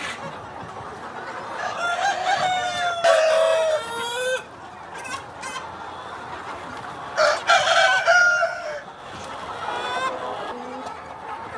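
A flock of free-range chickens: a rooster crows twice, the first long crow about two seconds in and the second about seven seconds in, over hens clucking.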